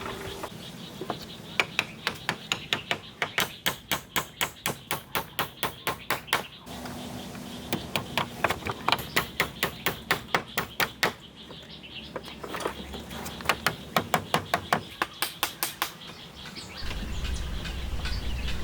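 Rapid, evenly spaced strikes of a hand tool on wood, about three to four a second, in three runs with short pauses between. A low steady noise comes up near the end.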